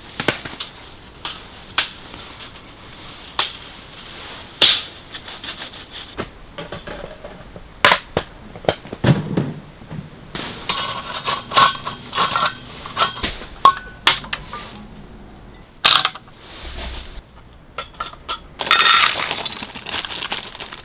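A string of sharp clinks and knocks, hard objects being handled and set down, with a few short bursts of rustling.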